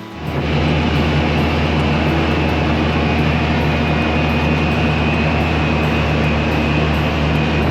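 Suzuki 4 HP outboard motor running at a steady speed, a constant engine drone with a faint high whine. It cuts in suddenly at the start.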